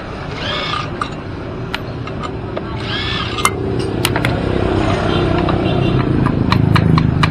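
A motor vehicle engine running, its low hum growing louder toward the end, with scattered sharp clicks and knocks. Two short high-pitched arching sounds come about half a second in and about three seconds in.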